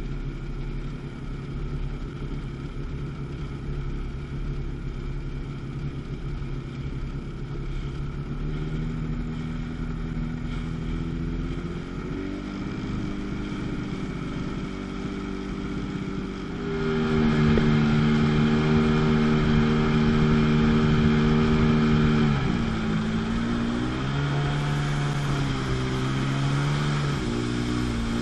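Jet ski's two-stroke engine running, its revs climbing from about a third of the way in and getting louder past the halfway point, then dropping off sharply and picking up again near the end.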